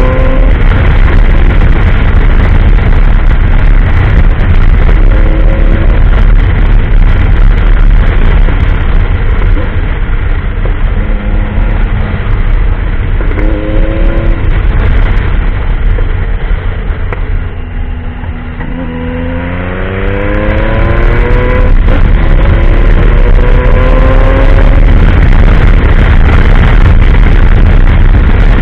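Motorcycle engine pulling hard under a heavy wind and road rumble, its pitch climbing in repeated rises as it runs up through the gears. About two-thirds of the way through it eases off and drops, then climbs again through several shifts.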